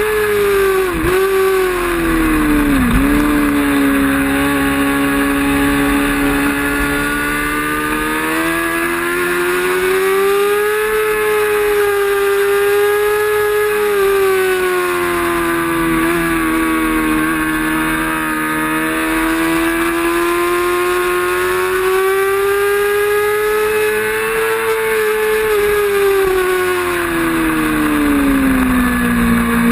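Racing motorcycle engine running hard at speed, its pitch rising and falling slowly with the throttle, with two quick sharp dips in pitch about one and three seconds in.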